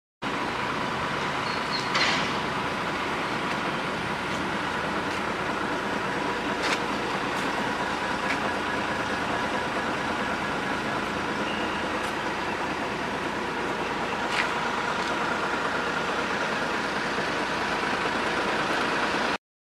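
Water truck running with a steady mechanical noise, broken by a few sharp clicks.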